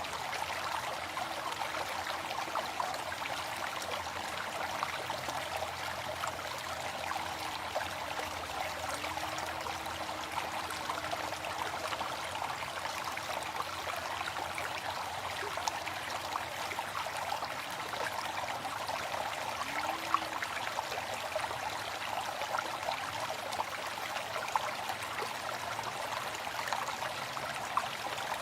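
Waterfall: a steady rush of falling water, with a fine patter of small splashes running through it.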